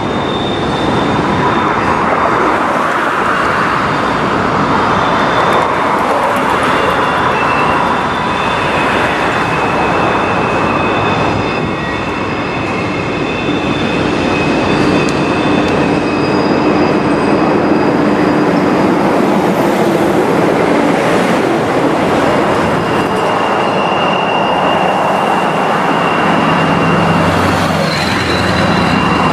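Freight train cars rolling past on steel wheels, a steady rumble with long, thin high-pitched wheel squeals that come and go.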